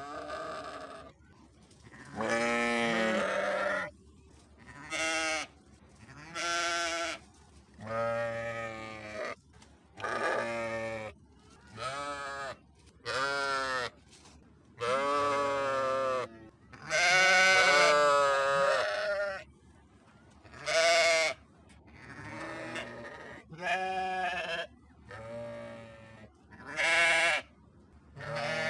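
Sheep bleating again and again, about fifteen separate bleats with short pauses between them, some brief and some long and quavering.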